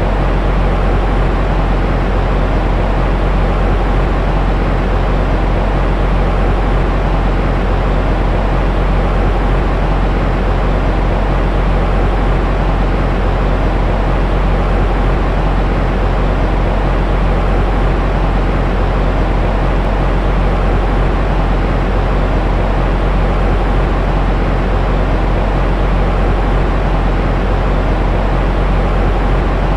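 Steady white-noise sleep sound: an even, unbroken rushing hiss weighted toward a deep rumble, with no change in level.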